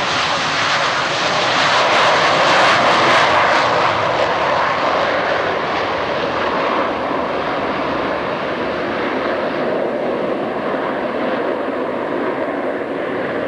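Four twin-engine F/A-18 Hornet jets taking off together in formation: a loud jet roar that peaks about two to three seconds in, then slowly fades as the jets climb away.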